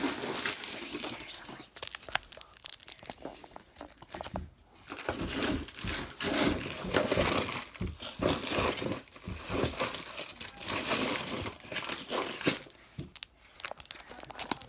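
Plastic packaging and containers rustling and crinkling as they are handled, a dense run of irregular crackles and small clatters.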